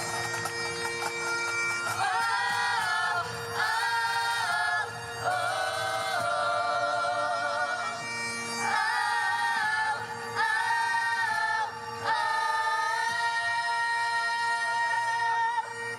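A live vocal music performance: several voices singing in harmony in phrases of long held notes with vibrato, over a steady low sustained tone.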